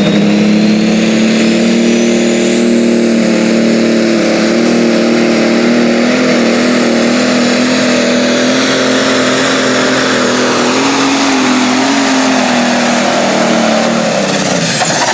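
A John Deere 7520 pro stock pulling tractor runs at full load down the track, its turbocharged diesel engine holding a steady note. A high turbo whine climbs over the first few seconds and holds, then the whine and the engine fall away near the end as the pull finishes.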